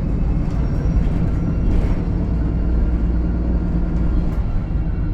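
VDL SB200 single-deck bus heard from on board while under way: a steady low engine drone with a thin high whine above it. That whine is the vacuum-cleaner-like note behind the bus's nickname 'Hoover'. A brief rattle comes about two seconds in.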